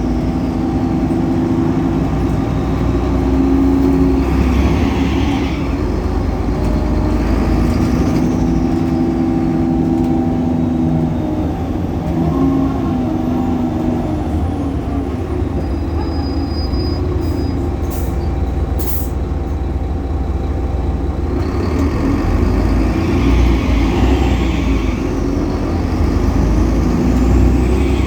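Solaris Urbino 18 articulated city bus driving, heard on board: its DAF Paccar PR265 diesel engine and ZF Ecolife automatic gearbox run with a steady low drone and hum. A high whine rises and falls a few times, and the sound eases off in the middle before picking up again near the end.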